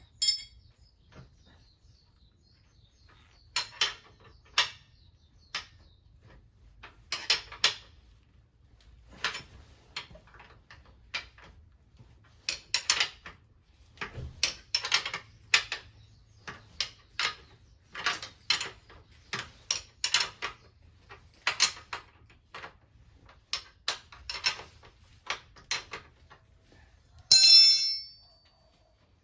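Irregular clicks and clinks of small hard objects being handled, with a louder metallic clatter near the end.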